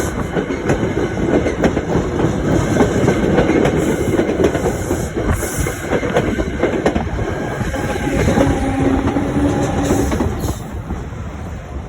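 New Jersey Transit train passing close by, a loud rumble with its wheels clattering rapidly over the rail joints, falling away near the end as the train goes by.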